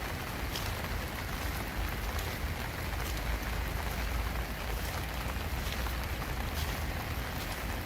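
Steady rain falling on a country path, an even hiss with occasional distinct drops and a low rumble underneath.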